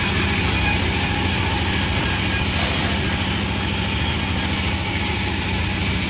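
Panda36 sawmill running steadily: a continuous machine drone with a constant low hum, unbroken throughout.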